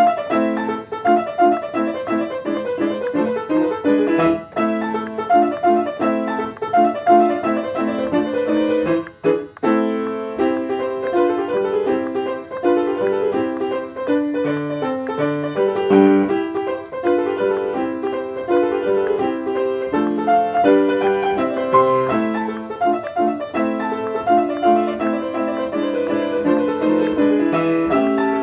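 Piano music: a steady run of quick notes in the middle register, with a brief pause about nine seconds in.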